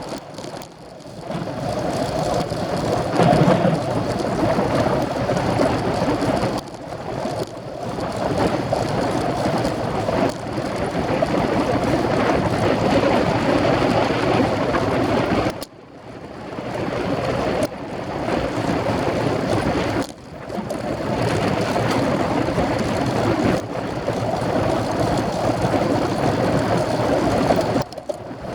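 Wind rushing over the microphone of a camera on a moving racing bicycle, a steady rough noise that drops away briefly a few times.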